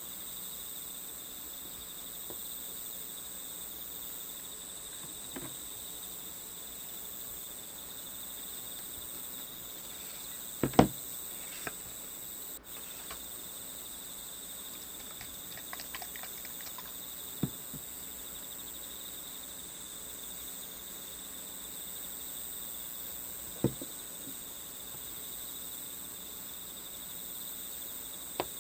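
Steady high chirring of crickets, with a scattering of small clicks and knocks, the loudest a sharp double knock about ten seconds in.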